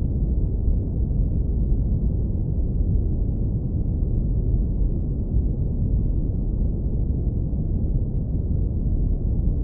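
Synthetic brown noise filtered to a deep rumble, with nothing above a few hundred hertz: a steady, even low hiss-like roar with no events.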